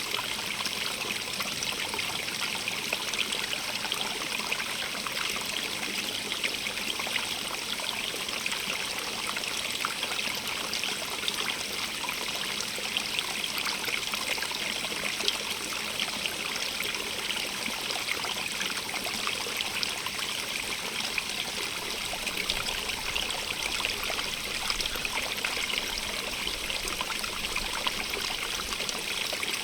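Running water of a small stream, a steady splashing and trickling rush without let-up.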